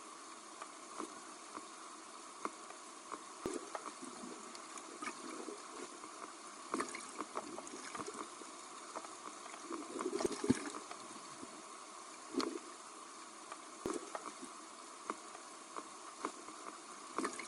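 Underwater sea sound: a steady hiss with scattered sharp clicks and gurgling bursts of bubbles from breathing underwater, the biggest bubble burst about ten seconds in.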